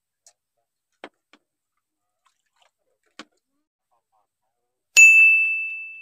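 A few faint clicks, then about five seconds in a single loud, clear bell-like ding that rings on one high pitch and fades out over about a second and a half.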